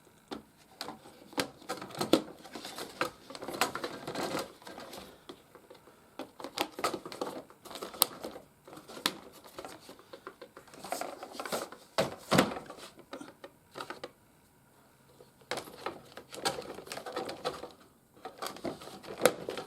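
Hard plastic toy playset parts being handled and pressed together during assembly: irregular clicks, taps and light knocks with rustling, coming in busy clusters with short pauses between.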